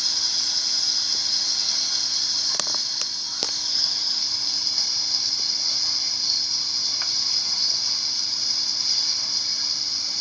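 A steady high hiss with a faint low hum under it, and a few light clicks about two and a half to three and a half seconds in and again near seven seconds.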